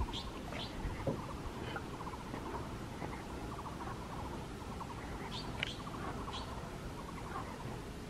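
Birds calling from the forest: brief high chirps, several close together about five to six seconds in, among repeated short rapid trills, over a low rumble of wind or handling.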